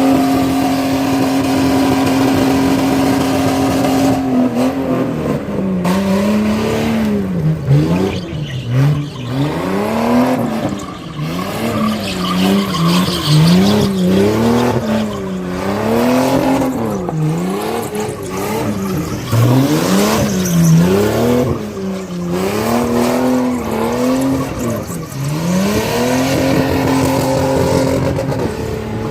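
A vehicle engine held at a steady speed, then revved up and down over and over, roughly one swell a second, before settling back to a steady note near the end.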